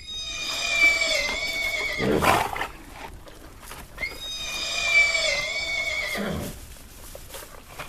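A horse neighing twice, about four seconds apart. Each long whinny is followed by a short breathy blast.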